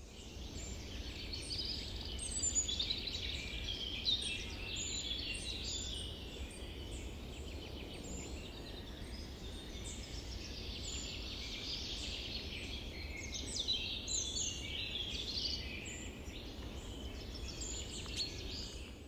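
Many small birds chirping and singing together in a dense, continuous chorus of short chirps and trills, over a low steady background rumble.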